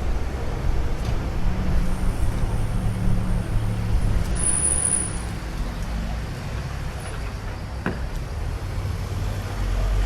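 Low, shifting rumble of wind and road noise during a bicycle ride, with traffic passing. About four seconds in there is a brief high-pitched whine lasting about a second.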